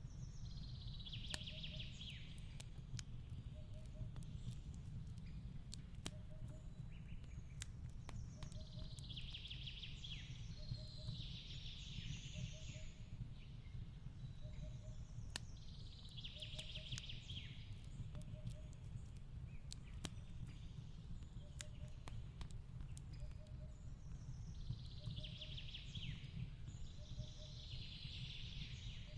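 Wood fire crackling with scattered sharp pops over a low steady rumble, while a songbird sings bursts of high twittering phrases every few seconds.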